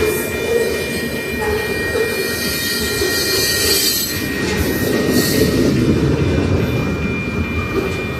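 Freight train rolling past: a steady rumble of wheels on rail, with a thin high wheel squeal above it.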